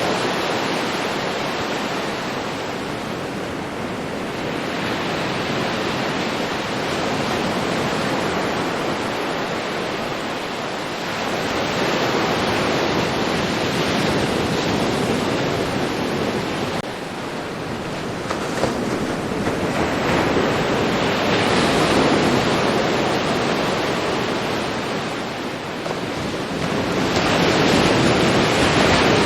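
Ocean surf washing onto a beach: a continuous rush of water that swells and ebbs slowly as waves come in about every six to eight seconds.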